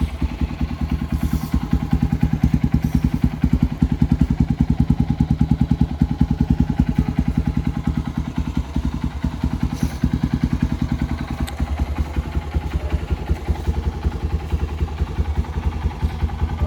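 Honda XR150L's air-cooled single-cylinder four-stroke engine idling steadily in neutral just after a cold start, a fast, even run of exhaust pulses.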